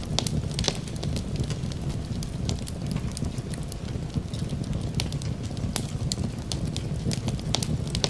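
Fireplace crackling, with frequent sharp pops and snaps scattered irregularly over a steady low rumble.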